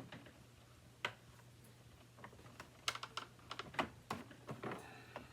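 Scattered light clicks and taps of plastic parts on a Hoover WindTunnel 2 upright vacuum being handled and checked for a clog, with the vacuum switched off.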